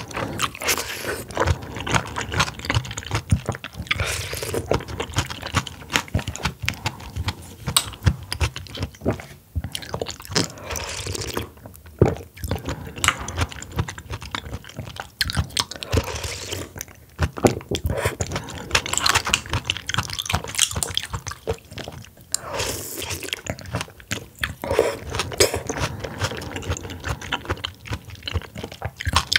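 Close-miked chewing of an oyster meal: a continuous run of quick, wet mouth clicks and smacks as the food is bitten and chewed.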